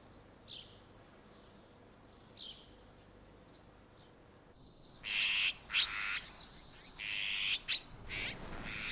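Songbirds chirping and twittering. A few faint single chirps come first, then about halfway in comes a louder, busier run of many quick chirps.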